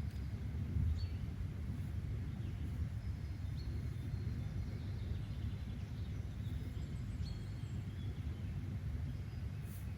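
Outdoor nature ambience: a steady low rumble with faint, short bird chirps scattered through it.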